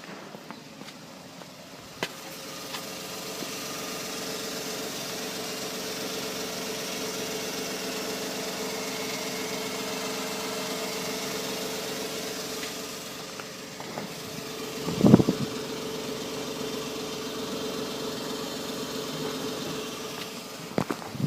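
Suzuki Stingray engine running steadily, growing louder about two seconds in and holding an even note. A brief loud thump comes about two-thirds of the way through.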